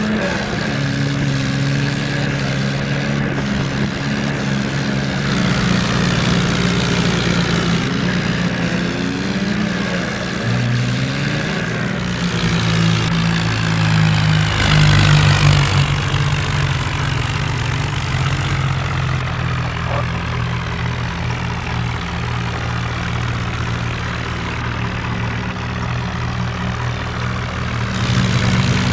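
Tractor diesel engines running hard under load, straining against each other in a tug of war, their pitch shifting and swelling to a peak about halfway through.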